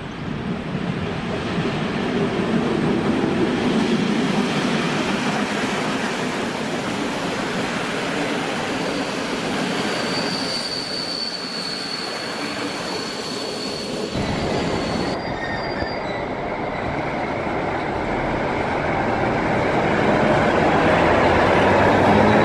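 A train rolling past on the rails, with a thin, high wheel squeal for several seconds about halfway through. A rising engine hum comes in near the end.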